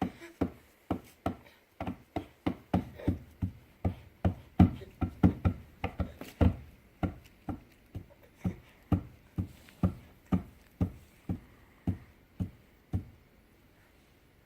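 A baby banging on a table over and over, a fast uneven run of knocks about two to three a second, loudest in the middle, that stops near the end.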